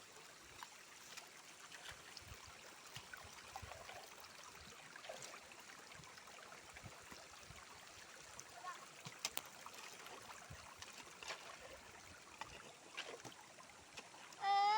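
Faint, steady running water with scattered small ticks and clicks. Near the end, a loud, high cry with a falling pitch starts.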